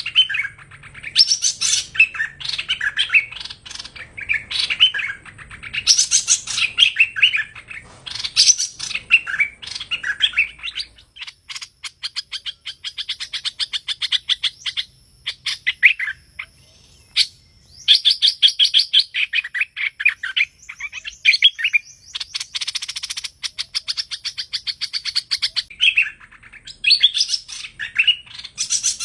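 Hoành hoạch songbird singing: quick, busy chirping phrases, then from about twelve seconds in long runs of rapid trilled notes, with the chirping phrases coming back near the end.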